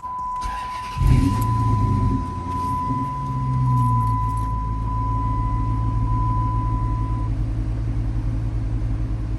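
2006 Dodge Charger R/T's 5.7-litre Hemi V8 starting warm about a second in, flaring up briefly and then settling into a steady idle through a muffler-deleted exhaust. A steady high-pitched tone sounds along with it and stops about seven seconds in.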